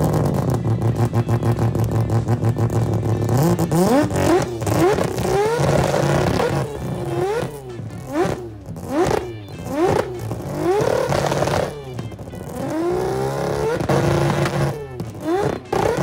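Mazda RX-7's rotary engine idling steadily through its exhaust, then revved hard in a long string of quick revs, each note rising and falling sharply, with a brief settle toward idle partway through.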